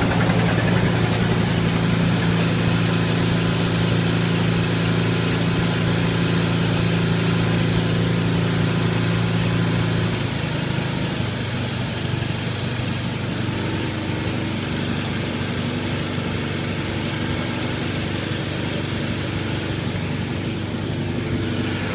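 A small gasoline engine idles steadily as it warms up after a cold start. About ten seconds in, its note changes and it runs a little quieter.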